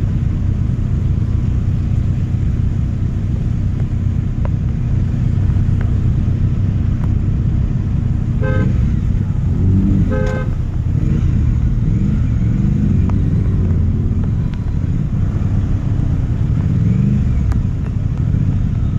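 Triumph Street Triple RS's three-cylinder engine running steadily while riding, its pitch rising and falling repeatedly in the second half. Two short horn toots come about eight and a half and ten seconds in.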